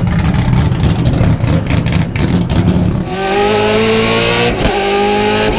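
Racing car engine: a rough, crackling low rumble for about three seconds, then a steady high-revving note that climbs slowly in pitch, with a brief break about four and a half seconds in.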